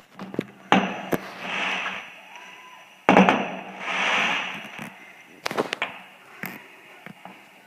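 Fireworks going off: two sharp bangs a couple of seconds apart, each followed about a second later by a hissing crackle, then a few smaller cracks near the end.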